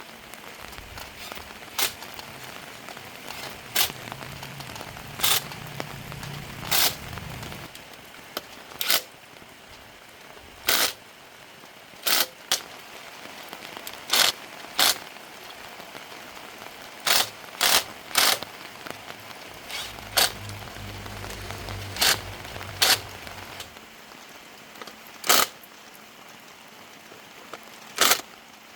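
Single sharp knocks or clicks, one every second or two at irregular spacing, over low steady background noise. A low hum runs under them at the start, stops about seven seconds in, and returns briefly around twenty seconds in.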